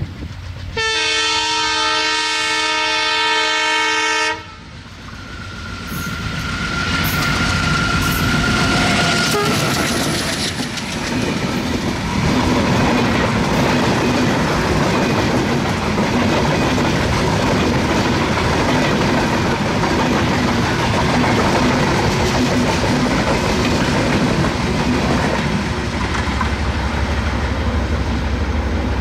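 Diesel locomotive horn sounds loudly for about three and a half seconds and cuts off sharply. The noise of the train then builds into a steady loud rumble, with the wheels clattering over the rail joints as it runs.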